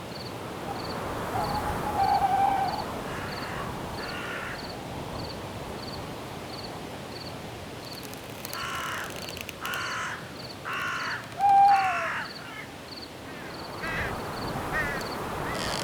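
Night forest ambience: crickets chirp at an even pace over a steady hiss of wind. A short owl-like hoot sounds twice, about two seconds in and again near the twelfth second, the loudest sounds here. Harsh, cawing bird calls come once around the fourth second and then as a run of four in the second half.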